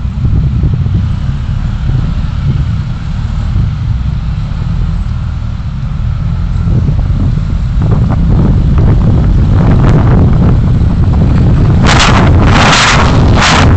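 Low road rumble of a vehicle on the move, heard through a dashcam microphone, with wind buffeting the microphone that grows from about eight seconds in to loud gusts near the end.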